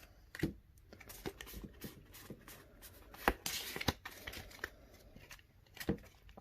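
Pokémon trading cards and a foil booster-pack wrapper being handled: a scatter of small card clicks and rustles, with a longer crinkly tearing rustle about three and a half seconds in as the pack is opened.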